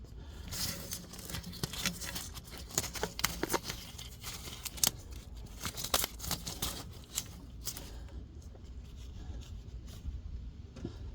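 Irregular clicks, taps and scraping rustles of close-up handling, dense for the first seven or eight seconds and then dying away to a low steady hum.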